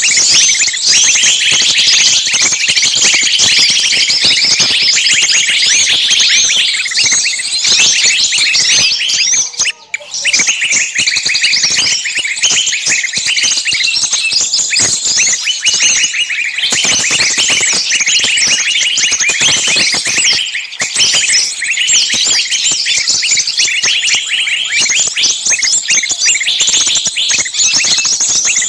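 A dense, continuous chatter of many small birds chirping at once, with a brief lull about ten seconds in.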